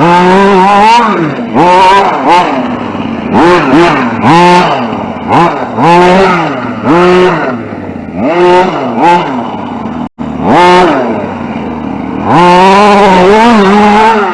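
RC short course truck's motor revving up and down over and over as the throttle is worked on and off, the pitch climbing and falling with each burst, with a brief cut-out about ten seconds in.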